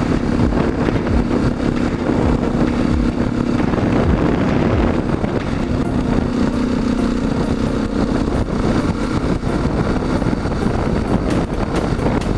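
Motorcycle engine running steadily at cruising speed, with a constant rush of wind and road noise on the bike-mounted camera's microphone.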